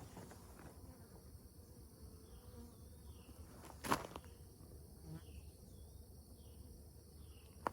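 Honeybees buzzing faintly around the hive during an oxalic acid vapor treatment, with faint high chirps over it. A single sharp click about four seconds in.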